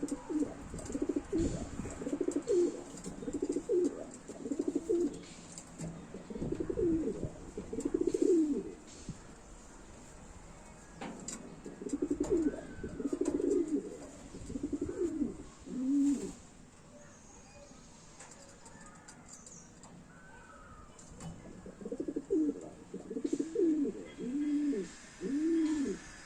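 Homing pigeon cooing in low, repeated rising-and-falling phrases, coming in three bouts separated by pauses of a few seconds.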